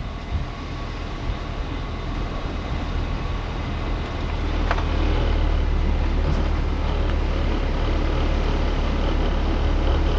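Car engine and road noise heard from inside a moving car: a steady low rumble that grows louder about halfway through, with one sharp click near the middle.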